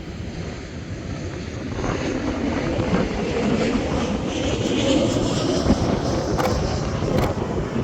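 Jet airliner passing over, its engine noise swelling to a peak about five seconds in, with wind rumbling on the microphone and a couple of sharp clicks near the end.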